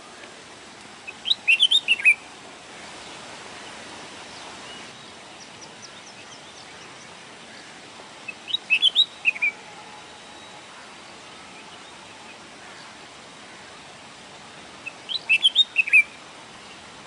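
A sparrow chirping in three short bursts of quick notes, each about a second long and several seconds apart, over a steady background hiss.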